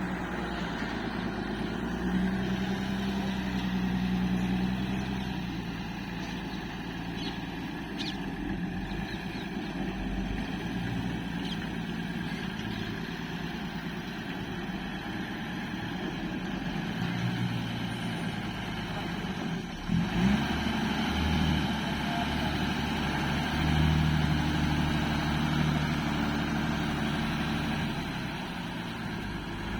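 Truck engine running, its low note rising and falling in speed several times, with a brief sweep in pitch about two-thirds of the way through.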